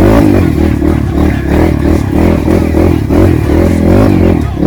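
Trail motorcycle engine revved hard in repeated bursts, its pitch rising and falling about twice a second, the throttle being worked on and off.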